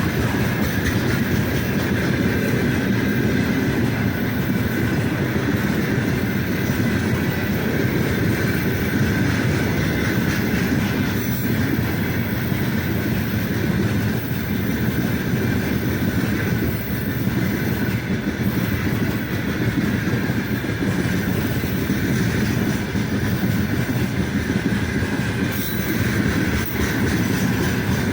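Loaded freight train rolling steadily past, its wheels rumbling and clattering on the rails, with a faint steady high whine from the wheels.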